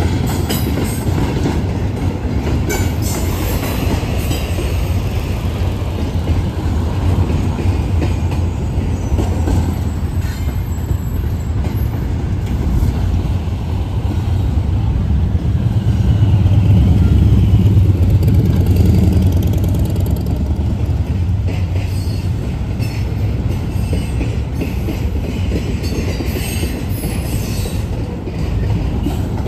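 Freight train of double-stack container cars rolling past: a steady low rumble of wheels on the rails, mixed with passing street traffic. The rumble swells louder for a few seconds just past the middle.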